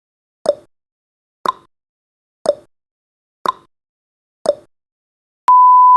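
Countdown timer's clock-tick sound effect, five ticks one second apart alternating tick and tock, then a steady high beep starts about half a second before the end as the timer reaches zero.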